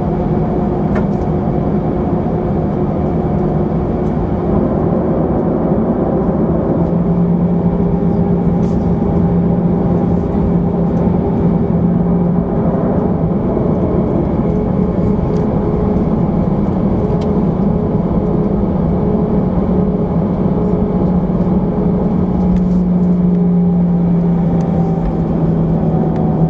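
Airbus A319 jet engines running steadily, heard inside the cabin as a constant hum of several steady tones over a rushing noise. The pitch shifts slightly twice.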